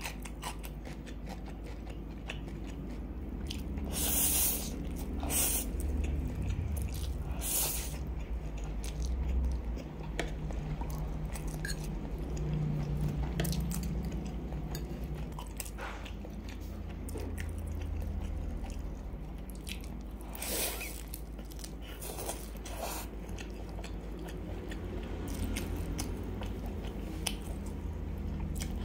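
Close-miked mouth sounds of a person eating black bean sauce instant noodles: steady chewing, with a few sharper, louder bites now and then, over a low steady hum.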